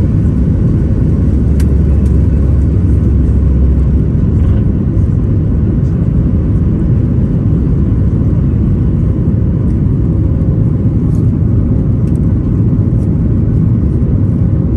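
Loud, steady rumble of a Boeing 737 MAX 8's CFM LEAP-1B jet engines and airframe heard from inside the cabin, with a faint steady hum above the rumble and a light click or rattle about a second and a half in.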